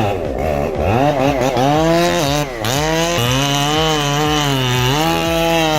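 Chainsaw running hard, its engine pitch repeatedly dipping and climbing back up as it revs and bogs in a cut.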